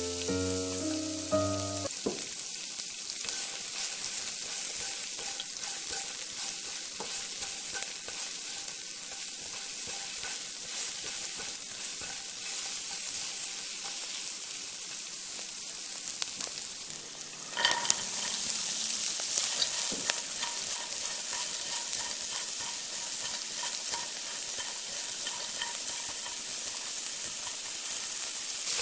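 Chopped onion and garlic sizzling in sesame oil in a nonstick pan, stirred with a silicone spatula. About two-thirds of the way through, diced carrot, green beans and corn are tipped in with a clatter, and the sizzle grows louder. Short piano music plays at the very start.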